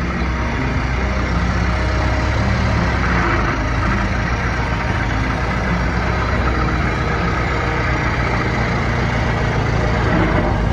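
1924 Ford Model T truck's four-cylinder engine running steadily.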